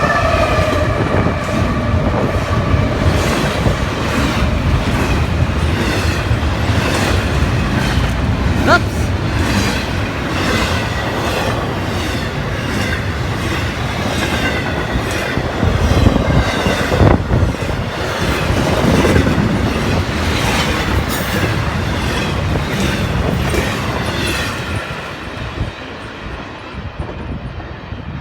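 A train rolling past close by, its wheels clicking over the rail joints in a steady clickety-clack. The tail of a horn note dies away at the very start, and the train's sound fades over the last few seconds as it moves off.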